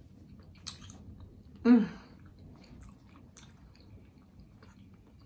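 Close-up mouth sounds of chewing a soft pretzel-bun cheeseburger: faint, scattered wet smacks and clicks, with a sharper click just under a second in. About two seconds in there is one brief vocal sound, falling in pitch.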